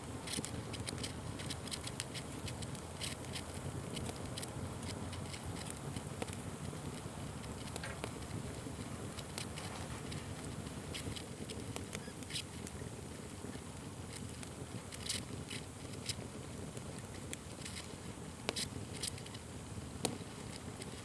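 Wood fire burning with irregular crackles and sharp pops over a steady low rumble of flames.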